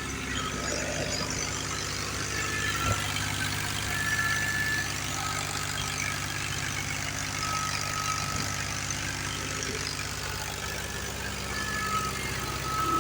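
Tractor diesel engine running steadily with a low, even hum, and brief high tones coming and going above it.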